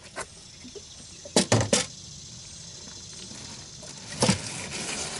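A few short knocks and clunks: a quick cluster about a second and a half in and another near the end, over a faint steady high hiss.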